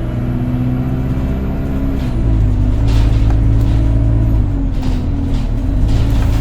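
Alexander Dennis Enviro200 single-deck bus heard from on board, its diesel engine running loudly with the droning 'hoover' sound. The engine note shifts in pitch a couple of times, with a few light rattles.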